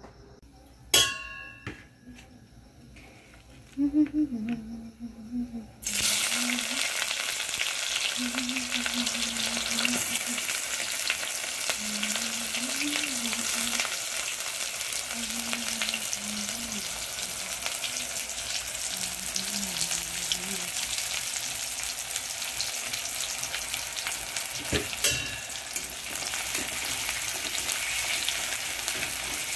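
Sliced onions frying in hot oil in a wok. A loud, steady sizzle starts suddenly about six seconds in, when the onions hit the oil, and keeps going, with a spatula stirring the onions near the end. Before the sizzle there is a single ringing metallic clink and a few knocks.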